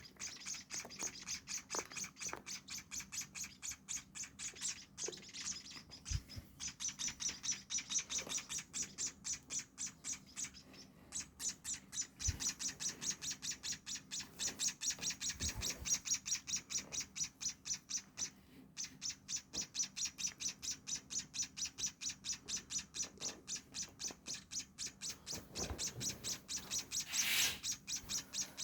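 Nestling birds giving rapid, insistent begging chirps, high and thin at about four to five a second and hardly pausing. Incessant chirping like this is the sign of hungry chicks calling for food.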